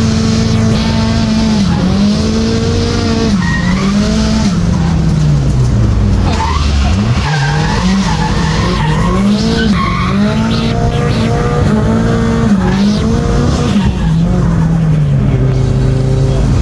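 Nissan Silvia S14 drift car's turbocharged SR20DET four-cylinder being driven sideways: the engine revs rise and fall over and over as the tyres squeal through the slides. Near the end the revs settle to a steady lower note.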